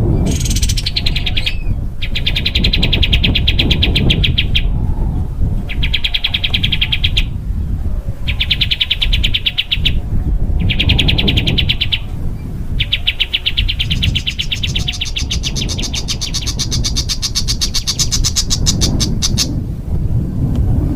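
A small songbird singing dense, harsh 'tembakan' trills, the close machine-gun-like runs used as masteran song for training songbirds. There are about five bursts of fast repeated notes, each a second or two long with short pauses between them, then a longer, higher trill lasting several seconds near the end. A low rumble of background noise lies underneath.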